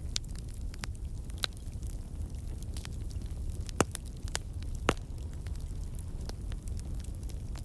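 Bonfire burning: wood crackling and popping irregularly over a steady low rumble of the flames, with two sharper pops near the middle.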